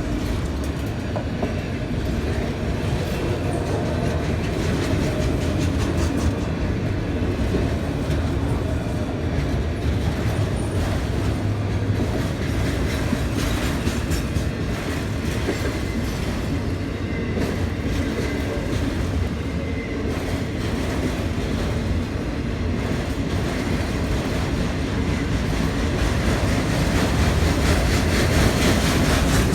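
A CSX freight train of autorack cars rolling past, a steady rumble with wheels clicking and clattering over the rail joints.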